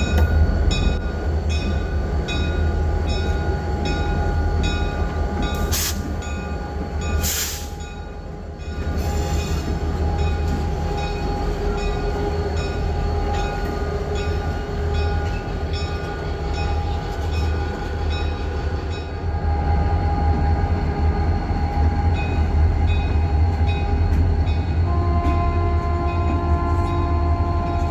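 Freight train running past with a heavy, steady rumble, a regular high ticking about three times a second, and two sharp knocks around six and seven seconds in. A chord of steady tones, a locomotive horn, joins faintly near the end.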